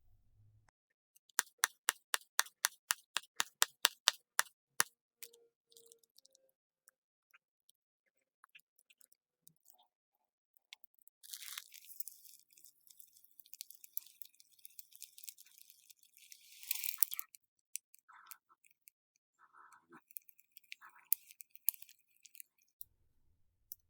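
Slime being squeezed and poked by hand: a quick run of crisp pops and clicks, then a longer stretch of crackling, with scattered small clicks between.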